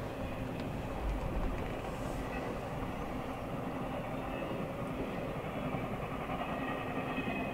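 Norfolk Southern intermodal freight train passing at speed: the steady rumble and rush of trailer-laden flatcars rolling over the rails.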